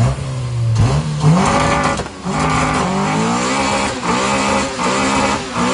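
Car engine revving hard, its pitch climbing and dropping back again and again in quick succession.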